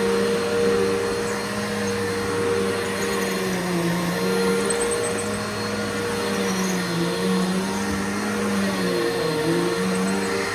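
Bissell Powerforce Bagless upright vacuum cleaner running steadily while being pushed over carpet, its motor hum dipping briefly in pitch every second or two.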